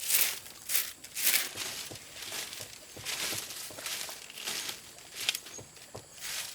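Irregular dry rustling and crunching: a run of short scraping strokes, one to two a second.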